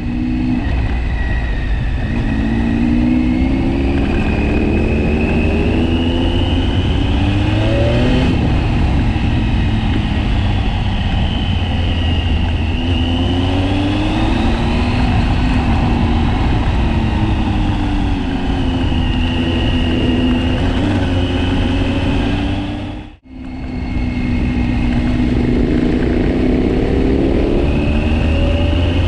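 KTM 1090 Adventure's V-twin engine heard from the rider's own bike, its pitch rising and falling as it accelerates and eases off through the gears, with heavy wind buffeting the microphone. The sound drops out abruptly about three-quarters of the way through and picks up again.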